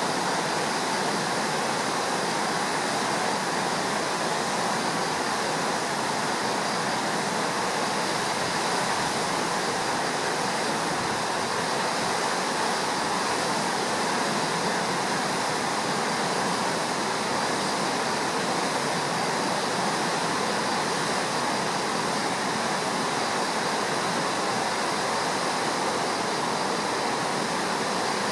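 Steady rushing roar of a river in flood, swollen and muddy after a typhoon's heavy rain, unchanging throughout.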